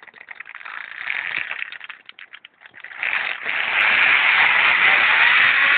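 A zip-line trolley's pulleys run along the steel cable as the rider sets off. They rattle and click at first, then about three seconds in turn into a loud rushing whir with a whine that rises in pitch as the rider picks up speed.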